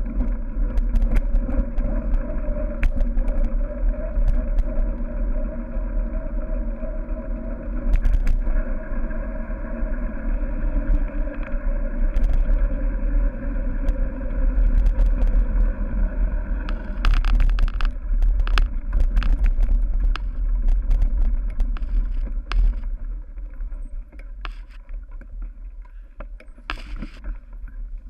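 Wind rushing over the microphone of a cyclocross bike's rider camera, over steady tyre and drivetrain noise, with scattered clicks and rattles from the bike on rough ground. There is a dense burst of rattling about two-thirds of the way through.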